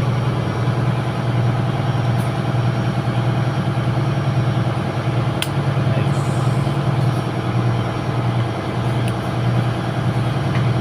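Steady drone of running engine-room machinery aboard a ship, a low even hum like an idling diesel engine. A single sharp click sounds about five and a half seconds in.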